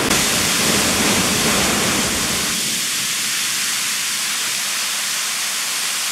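Steady hiss of rushing water, its deeper part falling away about two and a half seconds in.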